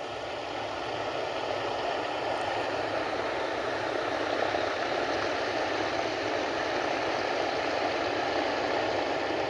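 Cessna floatplane's engine and propeller running steadily: a constant drone that swells up over the first second and then holds level.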